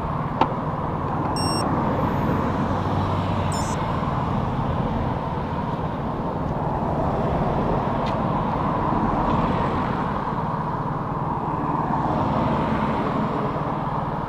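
Steady motor traffic on the ring road alongside, rising and falling gently as cars and trucks pass.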